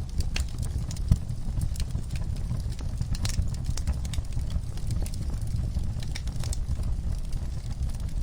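Wood fire burning in a fireplace: irregular crackles and pops over a steady low rumble, with one louder pop about a second in.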